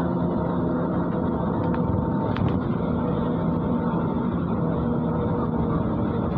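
MAZ-103 city bus's diesel engine running steadily as the bus drives along, heard inside the passenger cabin with road noise. A couple of short clicks or rattles come about two seconds in.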